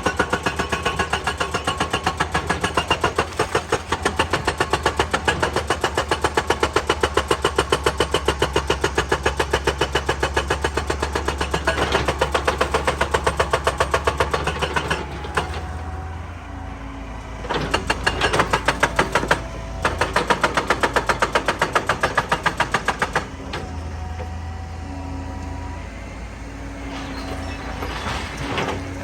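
Excavator-mounted hydraulic rock breaker hammering rock in a fast, even stream of blows that stops a little past halfway. Two short bursts of hammering follow, with the excavator's engine running steadily between and after them.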